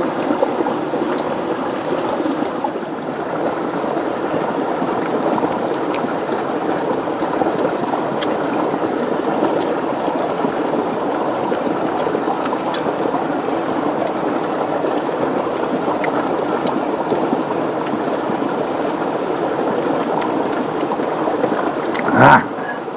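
River water rushing steadily, with a few faint scattered ticks. A brief, louder burst comes near the end, and then the sound drops suddenly.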